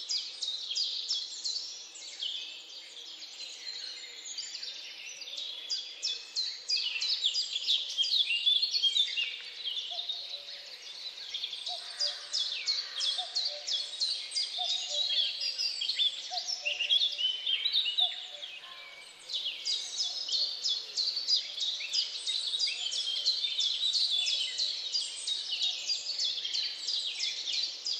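Many small birds chirping, rapid high calls overlapping in a dense chorus, with a lower note repeating about once a second through the middle stretch.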